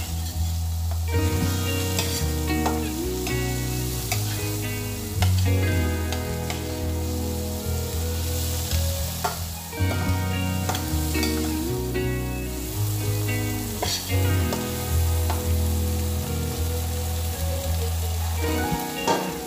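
Shrimp sizzling as they fry in a pan, with a spatula scraping and clicking against the pan as they are stirred. Background music plays over it.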